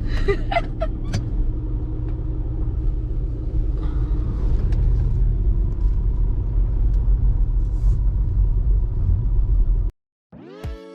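Steady low rumble of a moving motor vehicle, with a few short clicks near the start; it cuts off abruptly about ten seconds in.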